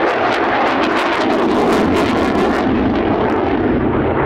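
Eurofighter Typhoon's twin EJ200 jet engines, loud and with a ragged crackle for the first two and a half seconds or so, then duller and lower as the crackle dies away.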